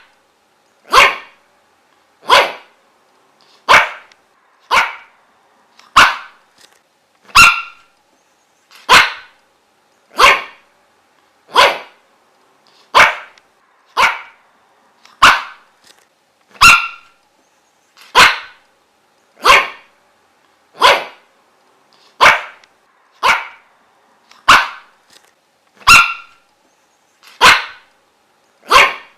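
A dog barking single, sharp barks at a steady, even pace, about one bark every second and a half, each bark much like the last.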